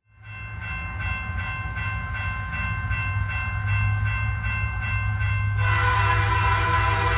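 Train running with a regular beat about twice a second. Near the end it sounds a long horn blast, a chord of several pitches lasting about two seconds.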